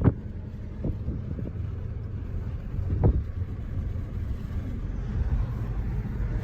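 Low, steady rumble of car engines running, with a few faint knocks about a second in and again around three seconds in.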